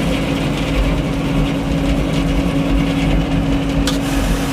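An engine running steadily at a constant speed, a continuous drone that holds one pitch without change.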